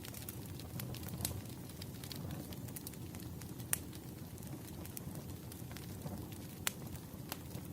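Firewood burning: a low steady rush with scattered sharp crackles and pops, two louder pops about halfway through and near the end.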